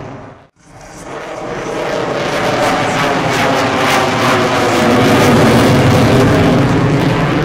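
Boeing F/A-18 Super Hornet's twin F414 turbofan engines during a pass. The sound cuts back in after a brief dropout about half a second in, then swells to a loud peak around five seconds in, with the sweeping, phasing hiss of a jet flying by.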